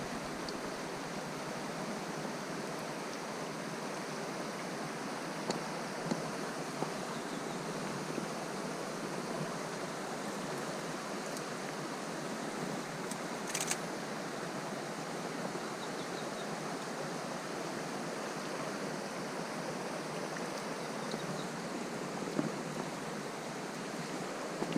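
Steady rush of a flowing river, with a few faint clicks.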